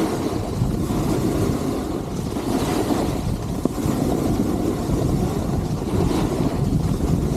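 Wind rushing over the camera microphone mixed with the scraping hiss of skis sliding on snow during a downhill ski run.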